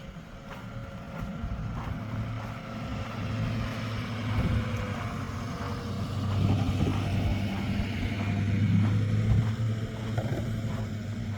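A car driving past on the street, its engine hum and tyre noise growing louder, peaking near the end and then easing off.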